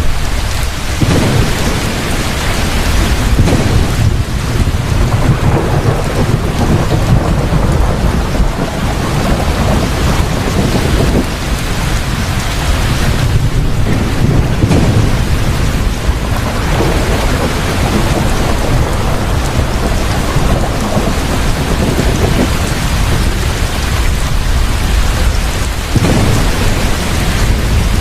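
Thunderstorm: heavy rain pouring down steadily, with deep thunder rumbling underneath and swelling every few seconds.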